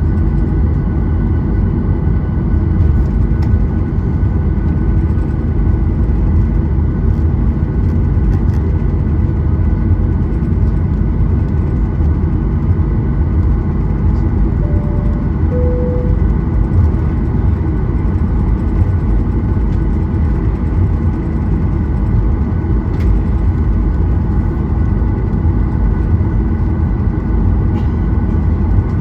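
Steady cabin noise inside a Boeing 737-800 on the ground, its CFM56-7B engines running at an even, unchanging power: a constant low rumble with faint steady whining tones. A brief two-note falling tone sounds about halfway through.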